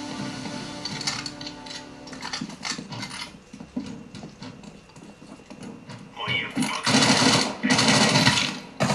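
Video game sound effects playing through an Armaggeddon X-Bar 2 gaming soundbar: a busy mix of game sounds that gets much louder about six seconds in.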